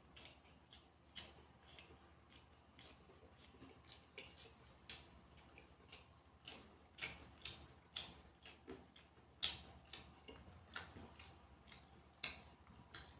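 Someone eating: irregular crisp crunches and mouth clicks of chewing, one or two a second, the loudest about two-thirds of the way through.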